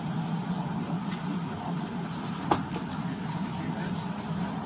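Steady low hum of an idling vehicle, with two sharp clicks about halfway through.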